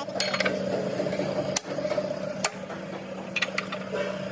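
Steady machine hum with a few sharp clicks or knocks spaced about a second apart.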